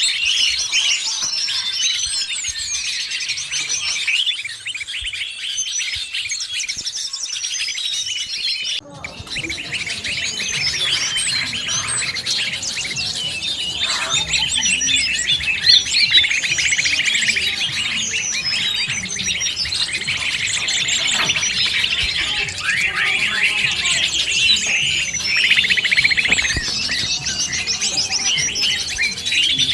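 A dense chorus of many small birds chirping and chattering at once, mixed with green leafbird calls. The recording cuts abruptly about nine seconds in to another stretch of the same kind of chorus over more background noise.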